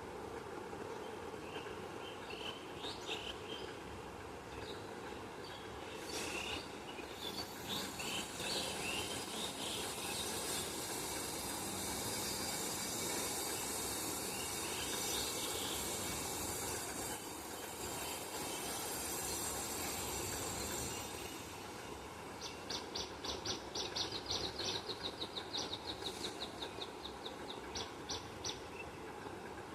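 Small birds chirping over a steady low background rumble, with a high, even hiss through the middle. Near the end a bird gives a fast run of high repeated notes, about four or five a second.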